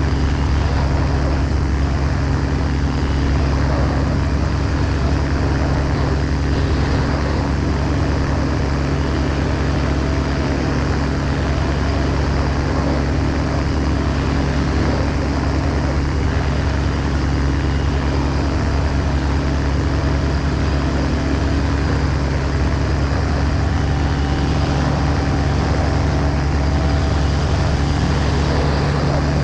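Ultralight aircraft's engine and propeller running at a steady speed, loud and unchanging, with no rise or fall in pitch.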